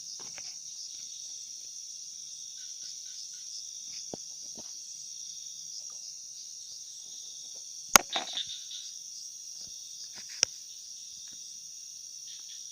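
Steady high-pitched chorus of night insects, crickets, trilling throughout. A sharp click about eight seconds in, followed by a few smaller clicks, is the loudest sound, with single lighter clicks near four and ten seconds.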